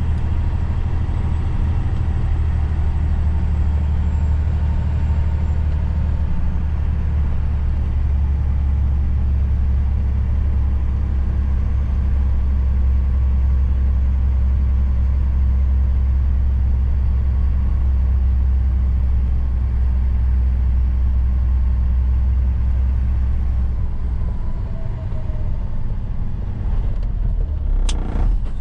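Truck's diesel engine running steadily, a low drone with road rumble. The engine eases off near the end, and a brief sharp hiss comes just before the end.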